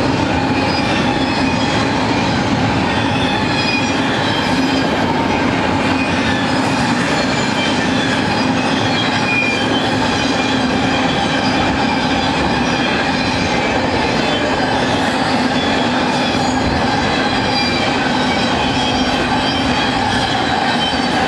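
Intermodal freight train cars loaded with double-stacked containers and highway trailers rolling past at speed: a loud, steady rumble of steel wheels on rail, with thin high squeals from the wheels wavering in and out.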